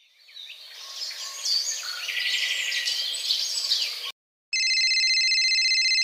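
Birds chirping: a busy chorus of chirps and whistles that fades in and cuts off sharply about four seconds in. About half a second later an old phone's ring begins, a steady, fast-trilling electronic tone.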